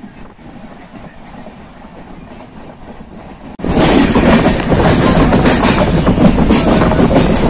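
Passenger train running along the line, heard from its open window: steady rumble and rush with the clickety-clack of wheels over rail joints. The sound jumps suddenly to much louder about halfway through.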